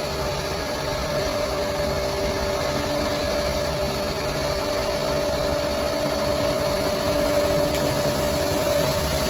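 Bulldozer's diesel engine running steadily, its hum holding an even pitch.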